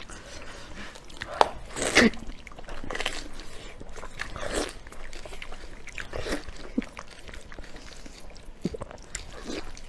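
Close-up chewing and biting of fatty pork 'chicken-comb' fat, irregular wet mouth sounds with a few sharp smacks about one and a half to two seconds in.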